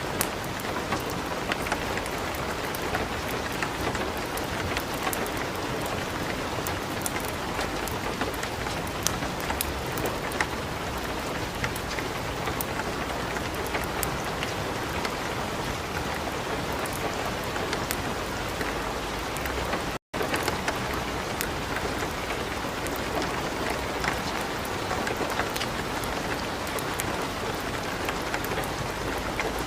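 Steady light rain mixed with a crackling wood fire in a fireplace, small pops and clicks scattered all through. The sound cuts out for an instant about twenty seconds in.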